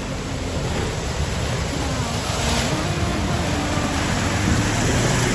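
A steady rushing noise that grows slightly louder toward the end, with a faint background music melody beneath it.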